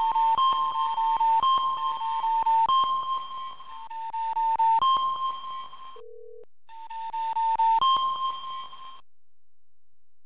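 Electronic alert beeps from a live seismic monitor's sound signals: tones that alternate between two close pitches, overlaid with rapid clicks. About six seconds in there is a short gap with a brief lower tone, then the beeping resumes and stops about nine seconds in.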